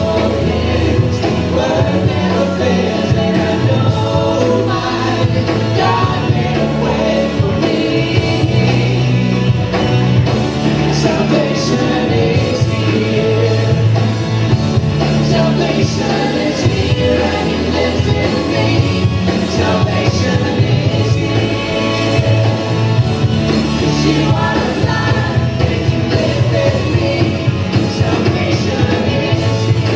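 Worship band and congregation singing a gospel-style song, with voices over band accompaniment.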